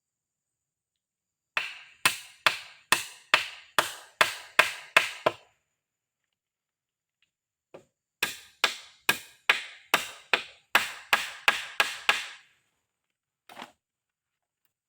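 Wood being chopped with a blade: two runs of sharp, evenly paced strokes, about nine and then about eleven, roughly two a second, with a pause between the runs and a single knock near the end.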